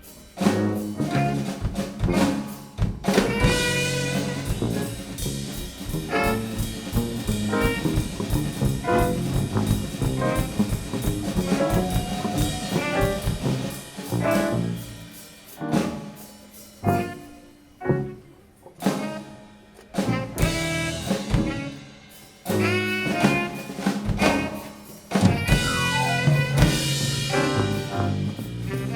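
Live band playing jazzy music with horns over a drum kit. In the middle it breaks into a run of short stabs with gaps between them, then the full band comes back in.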